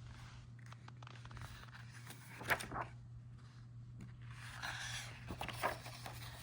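Paper rustling and handling, with a sharp tap about two and a half seconds in and more rustling near the end, over a low steady hum: a page of the picture book being turned.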